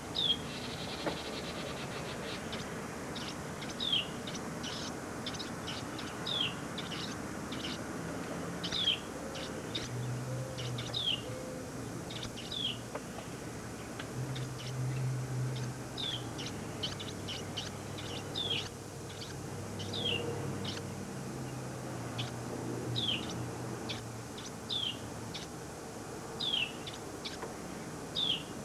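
Small bird chirping over and over, short falling chirps about every one to two seconds, with a faint low hum in the background.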